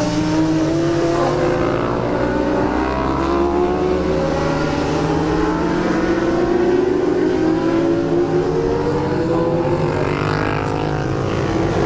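Racing motorcycle engines running hard on the circuit, the engine note dipping and climbing slowly over several seconds.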